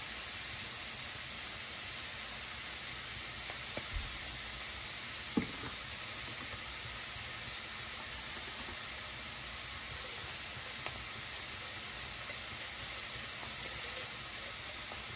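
Clams sautéing in a stainless steel pan over a gas flame: a steady sizzle, with a couple of faint clicks about four and five seconds in.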